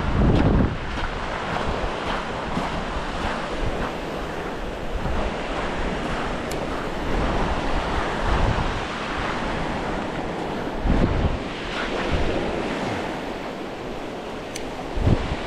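Sea surf washing on the shore, with wind buffeting the microphone in low rumbling gusts, strongest at the very start, about eleven seconds in and near the end.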